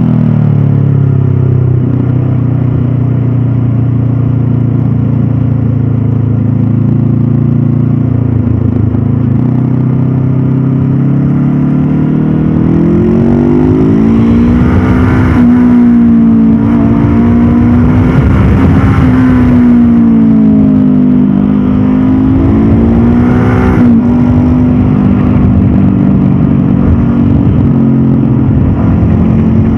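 Honda CB500F's parallel-twin engine and exhaust on the move. For the first dozen seconds it runs steadily with a slowly falling pitch. Then the revs rise and fall several times as the throttle is opened and closed.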